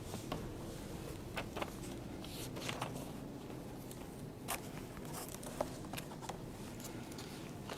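Quiet room tone with a low hum, broken by scattered small clicks and rustles at irregular intervals.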